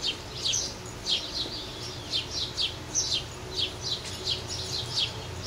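A bird chirping over and over: short, high chirps that sweep downward, about two or three a second.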